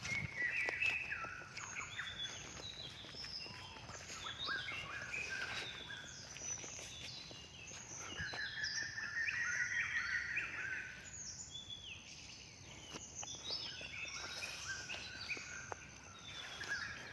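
Birds chirping and calling: many short, overlapping calls at different pitches, with a few faint clicks.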